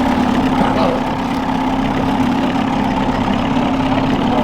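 Boat's outboard motor running steadily at trolling speed, a constant low hum.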